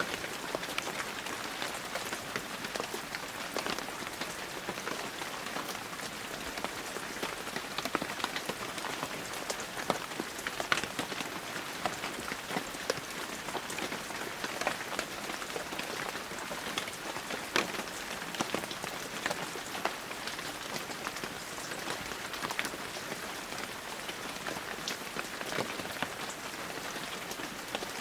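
Steady heavy rain falling, a dense hiss with many individual drops ticking and pattering on surfaces.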